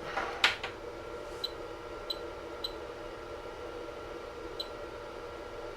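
Anycubic Chiron 3D printer's fans humming steadily. A clack comes about half a second in, then four short high beeps as its touchscreen is pressed to start the level-test print.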